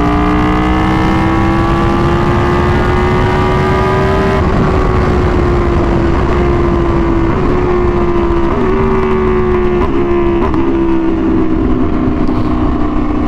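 Aprilia Tuono V4 1100's V4 engine through an SC-Project exhaust, running under load as the bike is ridden. Its note rises slowly for about four seconds, then levels off and eases a little, with a few brief dips.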